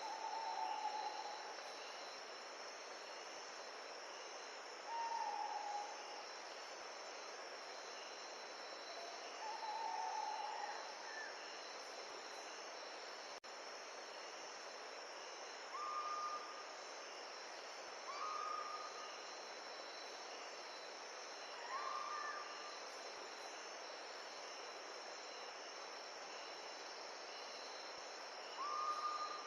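Insects trilling steadily over a constant hiss of wind. A bird gives about seven short, single whistled notes every few seconds, and the notes are pitched higher in the second half.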